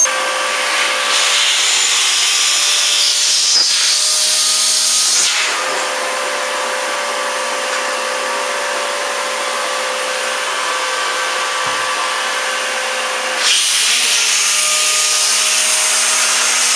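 Vacuum cleaner running steadily, drawing air through a homemade cardboard rotary vacuum motor. Its hiss dulls a little about five seconds in and brightens again near the end.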